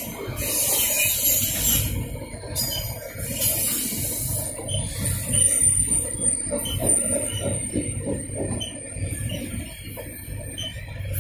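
Freight train of covered hopper cars rolling past close by: a steady rumble of steel wheels on the rails, with a thin high wheel squeal held from about four seconds in until near the end.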